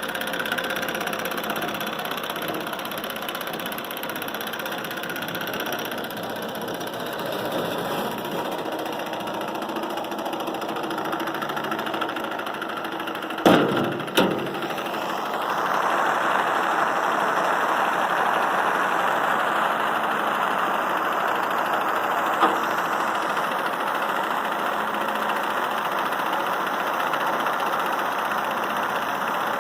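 Small all-metal Stirling engine running steadily, its hot cap heated in a stove, with two sharp knocks about halfway through and a louder rushing noise after them.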